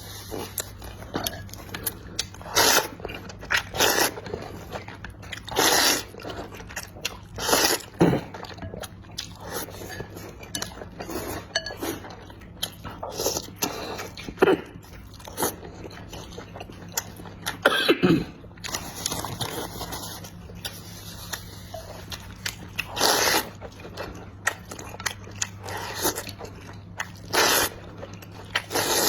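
Close-miked mouth sounds of someone eating: irregular bites, chewing and smacking, a loud burst every second or two, over a low steady hum.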